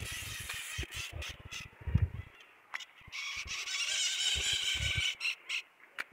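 Birds squawking and chattering in a dense high-pitched burst from about three to five seconds in, after low wind rumble and handling noise on the microphone at the start.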